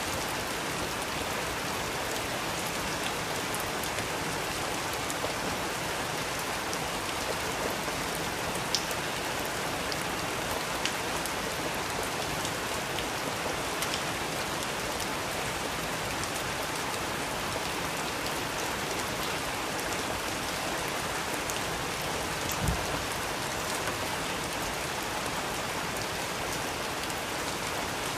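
Steady rain falling, an even hiss with scattered drop ticks, a couple of them louder, one as a low thud near the end.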